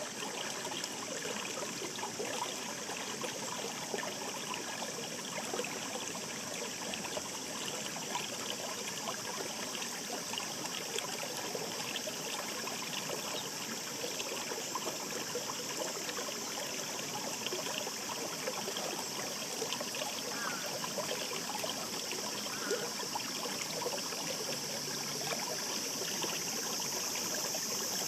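Shallow mountain stream babbling over rocks: a steady rush of water with many small splashes and trickles.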